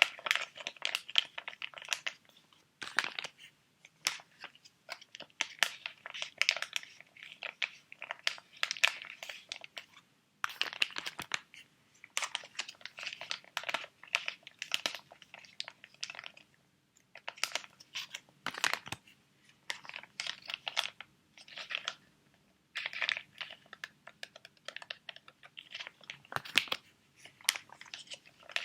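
Sheet mask packets being handled: crisp crinkling of the foil-and-plastic sachets, mixed with light tapping and scratching, in irregular bursts with short pauses between them.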